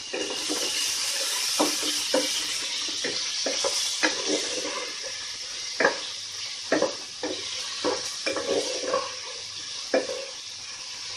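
Chicken strips and vegetables sizzling in oil in a deep pan while a wooden spatula stirs them, knocking and scraping against the pan at irregular moments.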